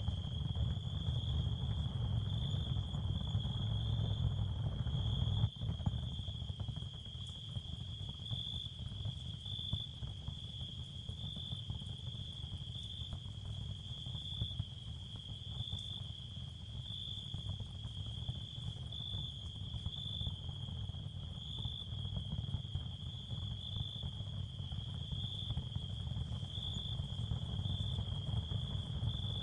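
Ambient sound bed for tinnitus masking: a steady high-pitched cricket chorus over a low continuous rumble, with one sharp click about five seconds in.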